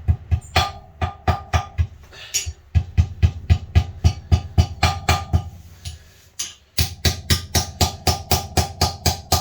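A hammer tapping a dust seal into a dirt bike's rear wheel hub with quick, even blows, about four a second, stopping briefly a little after halfway.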